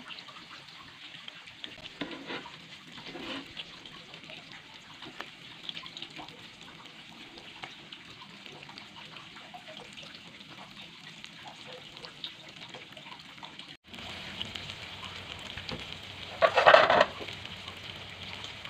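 Stuffed tofu in tapioca batter deep-frying in hot oil, with steady sizzling and crackling. The sizzle cuts out for an instant about fourteen seconds in and comes back louder. Shortly after that comes a brief, louder noise lasting about half a second.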